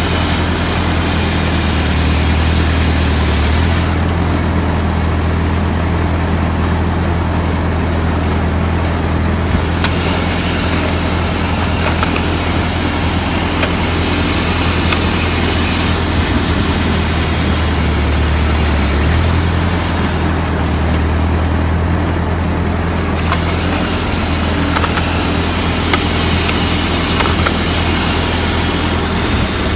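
Ford 8N tractor's four-cylinder flathead engine running steadily, its note shifting a couple of times.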